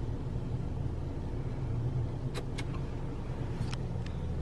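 Car engine idling steadily, heard from inside the cabin as a low hum, with a few faint clicks around the middle.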